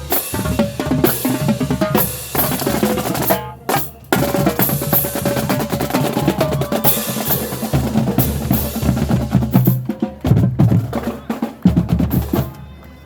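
Marching band playing, led by its drumline: rapid snare drum strokes and rolls with bass drum hits, and held notes from the horns. The playing breaks off briefly about three and a half seconds in and stops near the end.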